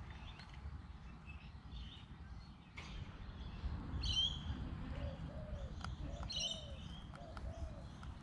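Birds calling: two bursts of short high chirps, and a series of low, evenly repeated arched notes through the second half. A few faint clicks sound over a steady low background rumble.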